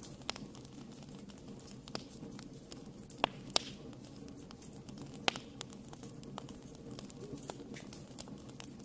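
Wood fire burning in a fireplace, crackling with irregular sharp pops over a low steady rumble; three louder pops come in the middle.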